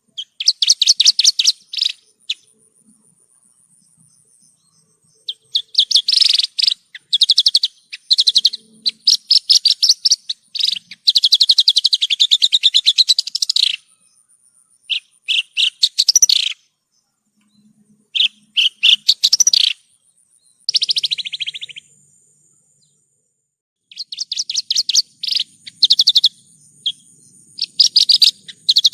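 Branjangan (Javan bush lark) singing: phrases of fast repeated chirping notes, each lasting one to three seconds, separated by short pauses and a longer one in the middle.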